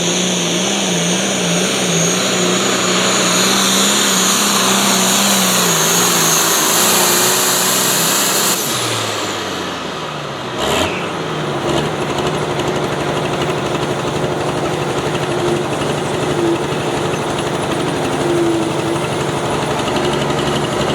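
Turbocharged pulling tractor engine at full throttle, with a high turbo whine and a wavering pitch. About eight and a half seconds in the throttle comes off: the engine pitch drops and the turbo whine winds down. A single sharp knock follows a couple of seconds later, and then the engine keeps running at a lower pitch.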